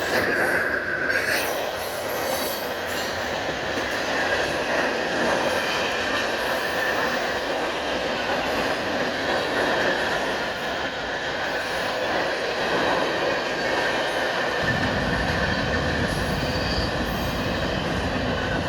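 CSX mixed freight train rolling past: a steady rumble of freight cars' wheels on the rails, with a high wheel squeal that is strongest in the first second or so. A deeper rumble joins about three-quarters of the way through.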